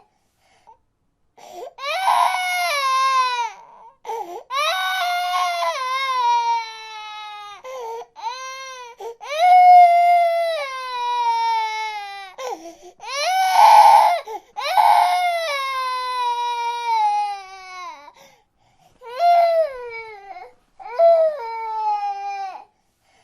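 A baby crying: a run of drawn-out wails, each sliding down in pitch, broken by short pauses for breath, with the loudest, harshest cries about two, ten and fourteen seconds in.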